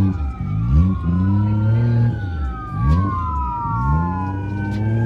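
Two police sirens wailing at once, their tones sweeping slowly up and down and crossing each other. Underneath is a loud, low engine-like drone that sags and picks up again several times.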